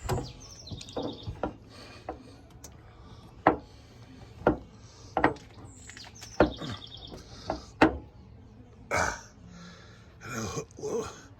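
Sharp clicks and knocks, about nine spread over several seconds, from the hood of a 2006 Pontiac GTO being lifted and a new hood gas strut being handled into place. Birds chirp briefly twice in the background.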